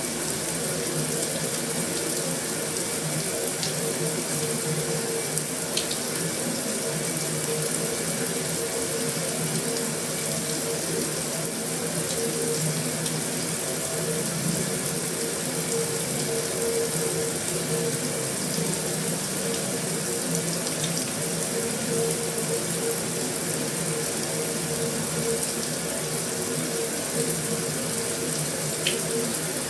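Heavy rain falling steadily on a metal roof: a continuous, even hiss with a couple of faint sharp ticks.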